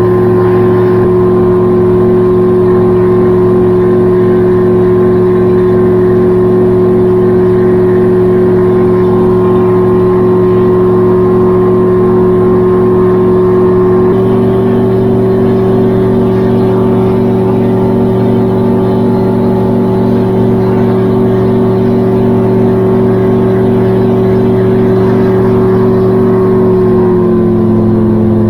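Gyrocopter engine and pusher propeller running steadily at cruise power. The pitch steps up slightly about halfway through and drops a little near the end as the power is eased back.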